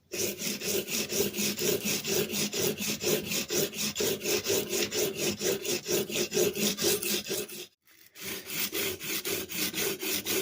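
A steel hand-plane iron rubbed back and forth on 150-grit sandpaper, about three scraping strokes a second, with a brief pause about three-quarters of the way through. The strokes are sharpening the bevel of the old iron to square up its edge.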